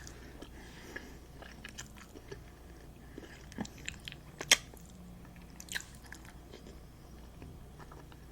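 Close-miked eating: quiet chewing with soft wet mouth clicks and a few sharper clicks, the loudest about four and a half seconds in.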